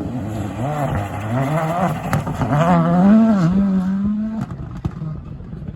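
Rally car engine revving hard and changing gear, its pitch rising and dropping several times, with a few sharp cracks. The engine note cuts off about four and a half seconds in and the sound fades.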